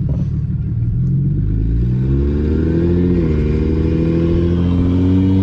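Single-turbo 2007 BMW 335i's N54 inline-six accelerating: the engine note climbs, dips briefly at a gear change about three seconds in, then climbs again.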